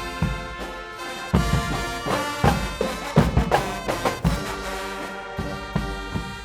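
A Guggenmusik carnival band playing: brass instruments sound held chords together, punctuated by drum beats.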